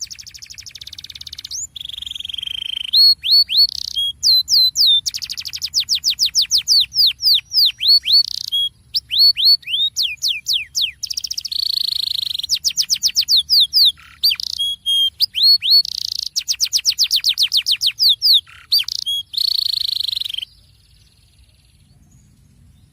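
Canary singing a long rolling song of fast trills and rapid runs of downward-sweeping notes, stopping abruptly about twenty seconds in.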